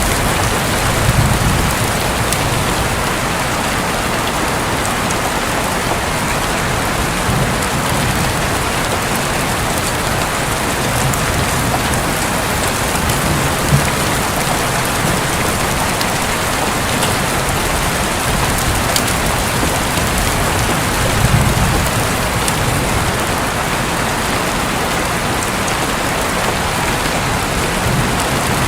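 Heavy rain falling steadily on a roof, with low thunder rumbling briefly twice, about a second in and again about two-thirds of the way through.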